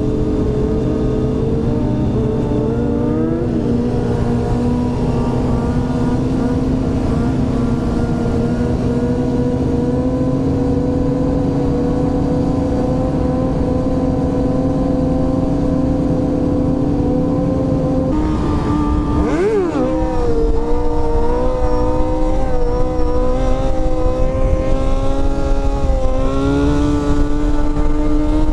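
Motorcycle engine running at steady road speed, its pitch slowly climbing. About two-thirds of the way through, the pitch drops sharply and sweeps back up, and the engine then runs louder and higher, rising once more near the end.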